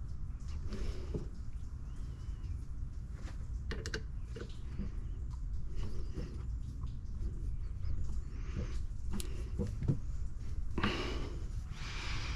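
Small pump parts being handled and pressed into place by hand: scattered clicks and light knocks over a steady low hum, with a brief rustling hiss near the end.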